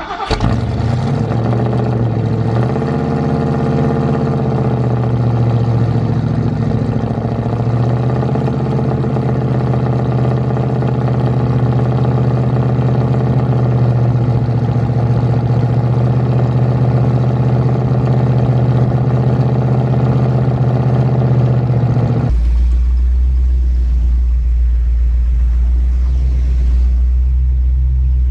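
1966 Ford Mustang's 289 V8 on a cold start: it catches, revs and wavers for the first few seconds, then settles into a steady fast idle. About three quarters of the way through, the sound changes suddenly to a deep low drone, and the revs rise again near the end.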